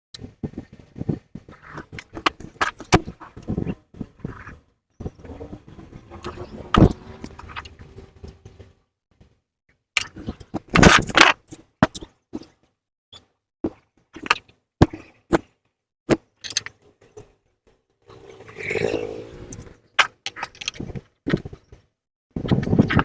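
Metal clinks, knocks and scraping from hand tools and exhaust parts being handled while an exhaust is mounted, coming in irregular bursts. There is a dense, loud rattle about eleven seconds in and a longer scrape around nineteen seconds.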